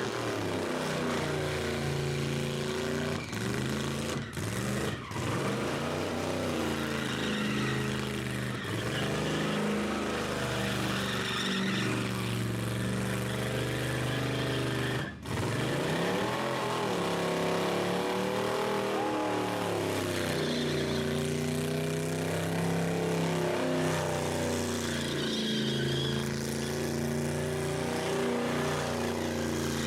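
Rat rod engine revving hard and holding high revs on a burnout, its pitch swinging up and down again and again, with a few brief breaks.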